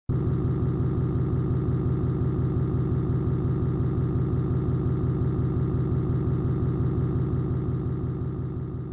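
An engine idling steadily with a fast, even pulse, starting abruptly and fading out near the end.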